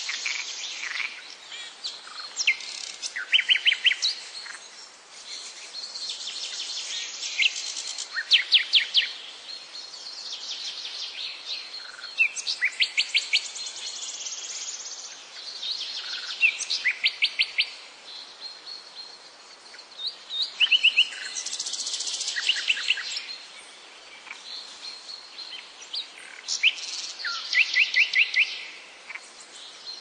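Birds singing, with phrases of quick repeated chirps every few seconds, over a steady high insect buzz.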